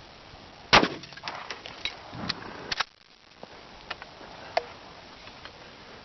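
A single 12-gauge shotgun blast about a second in, magnum bird shot that shatters the patio stone, followed for a couple of seconds by scattered ticks and clatter of stone chips and gravel landing, with a quick double clack just before the three-second mark and a few faint ticks after.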